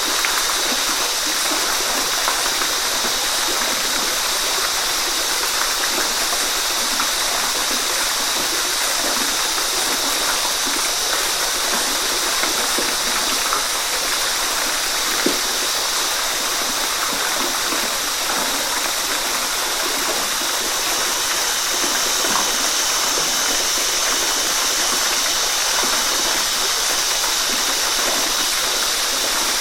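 Waterfall: water falling and splashing in a steady, unbroken rush, with small gurgles through it.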